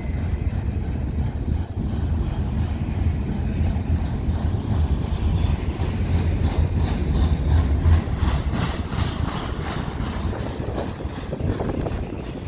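Container freight train rolling past with a steady low rumble, with wheels clacking over the rails in the middle stretch and the sound easing a little near the end.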